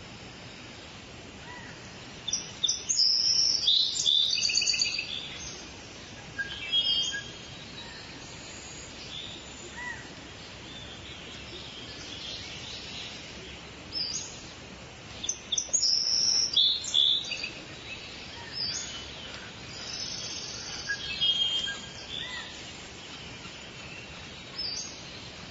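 Forest ambience: small birds chirping and singing in two loud bursts, about two seconds in and again around fifteen seconds, with scattered quieter calls over a steady background hiss.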